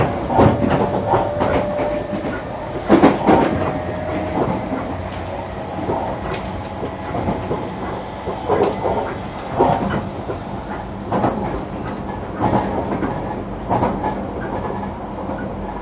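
JR Kyushu 305 series electric train running, heard from inside a motor car. The wheels clack over rail joints at uneven intervals over a steady rolling rumble, with a steady thin whine from the traction drive for the first few seconds before it fades.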